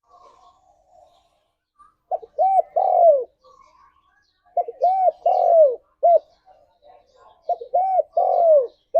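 Spotted dove cooing: three phrases, each a run of short arched coos ending on a longer falling note, about every two and a half seconds, after a couple of seconds of faint soft calls.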